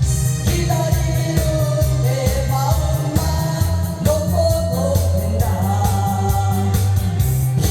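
A singer performing a Korean trot song, the voice gliding and wavering over an accompaniment with a steady, loud bass beat.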